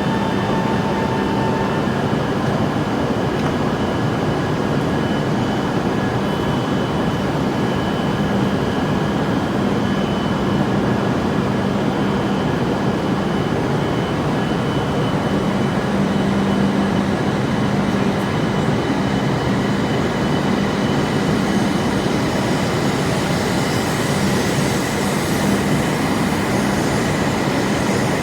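Running noise of an E7 series Shinkansen heard inside a passenger car: a dense, steady rush of rolling and air noise with faint steady tones in it from the Mitsubishi IGBT VVVF traction equipment. The hiss grows brighter in the last third.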